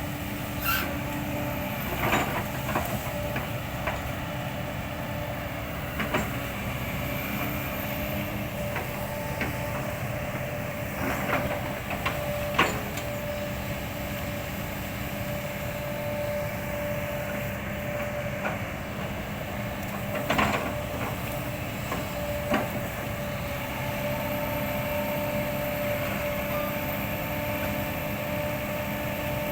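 Kobelco excavator's engine and hydraulics running steadily, with a few sharp knocks and cracks scattered through as the bucket chops up oil palm trunks.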